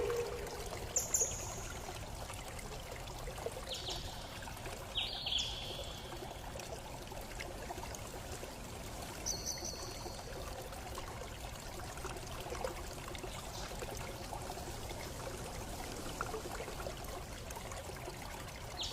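Steady running water, like a trickling stream, with a few short high chirps over it in the first half.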